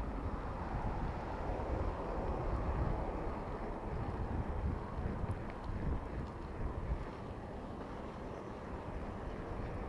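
Wind buffeting the microphone of a camera on a moving bicycle, a steady low rumble mixed with road and traffic noise.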